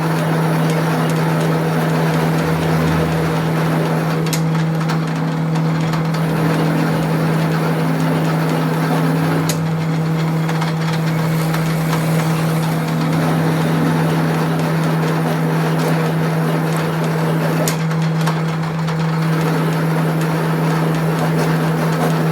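Workshop machinery running steadily: a constant hum over a rough, even noise, with a few sharp ticks.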